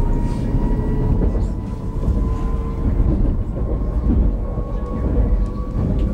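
Interior ride noise of an X60B electric commuter train (Alstom Coradia Nordic) underway: a steady low rumble of wheels on track with a thin electric whine that rises slowly in pitch.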